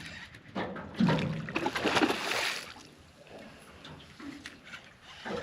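Water splashing and sloshing, loudest from about one to two and a half seconds in, with scattered knocks.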